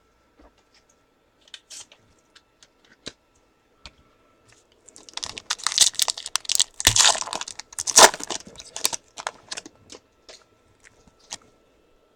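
Wrapper of a Panini Crown Royale football card pack being torn open and crinkled: a few light clicks, then a dense run of crackling and tearing from about five seconds in until about nine and a half.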